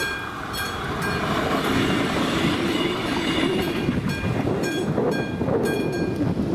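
Passenger train passing over the level crossing with a loud, steady rumble of wheels on rail. Over it, the crossing's classic AŽD 71 warning bell keeps striking about twice a second.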